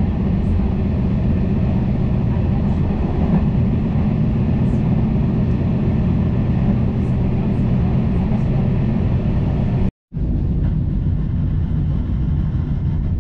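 Steady low rumble inside a moving Schindler passenger coach: wheels and running gear on the track. The sound cuts out for a split second about ten seconds in, then carries on.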